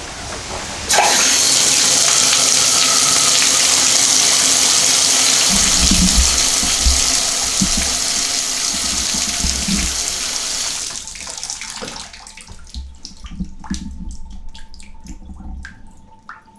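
Water running at full flow from a repaired Moen tub/shower faucet, switching on suddenly about a second in and shut off around eleven seconds in. Afterwards, scattered drips and small clicks as the spout drains, while the valve is tested to see whether the leak has stopped.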